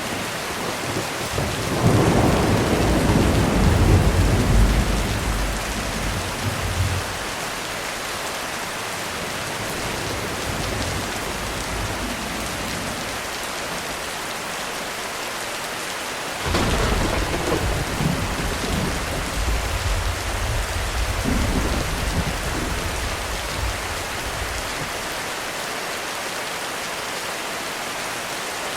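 Heavy rain falling steadily on a roof, with two rolls of thunder. The first rumbles up about two seconds in and lasts several seconds. The second begins with a sudden crack a little past the middle and rumbles on for several seconds before fading.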